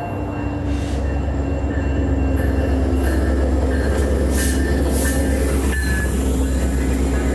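Metra diesel commuter train pulling into the station: a heavy low rumble that builds over the first couple of seconds, with thin wheel or brake squeals and some clattering as the cars come in.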